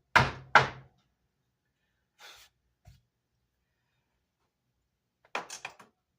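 Two sharp knocks about half a second apart, a faint scrape and a light tap, then near the end a quick rattle of small clicks: tools and parts being handled during work on a guitar amp's wooden speaker baffle.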